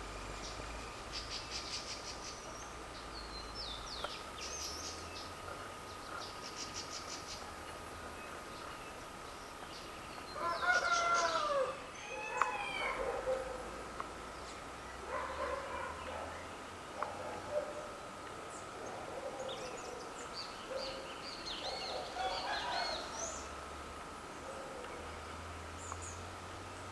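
Birds calling: high chirps and short trills at first, then about ten seconds in a louder series of arching, lower calls from a larger bird, followed by scattered calls. A faint steady high tone runs underneath.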